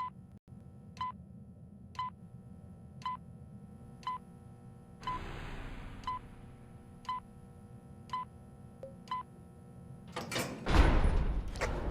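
Steady ticking about once a second, each tick a short pitched click. A brief hiss comes about five seconds in, and a louder rushing noise starts near the end.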